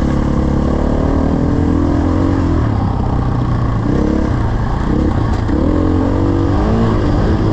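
Dirt bike engine running while riding, its pitch rising and dropping several times as the rider works the throttle and gears.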